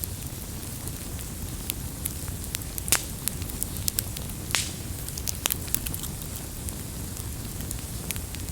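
Wood fire crackling: a steady low rumble of flames with irregular sharp pops and snaps, the loudest pop about 3 seconds in and a brief hiss about halfway through.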